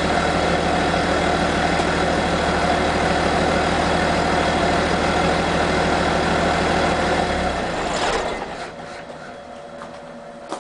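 Isuzu 6BG1-T inline-six turbo diesel idling steadily through a full-flow 4-inch straight exhaust. About three-quarters of the way through it is shut off and dies away, leaving a few faint clicks.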